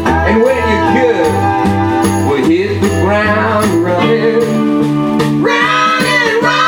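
A live band playing a pop-rock song, with singing over bass, guitar and percussion. The deepest bass notes drop out about four seconds in.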